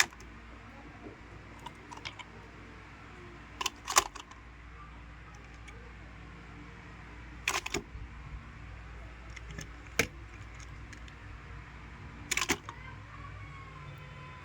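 Sharp clicks and knocks from small hard objects being handled, coming in five short clusters over a low steady hum.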